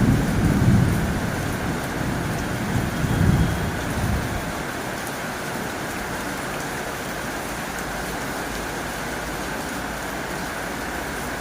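Heavy rain falling on a tin roof, a steady even hiss. A low rumble swells twice in the first four seconds and then dies away.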